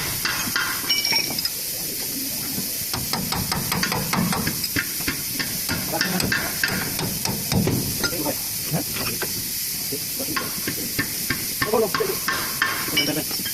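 Irregular metal knocks and taps from tool work on a truck's suspension, over a steady hiss.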